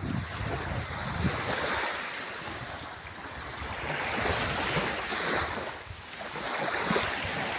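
Sea waves washing onto the shore: a continuous rush of surf that swells and eases, with wind rumbling on the microphone.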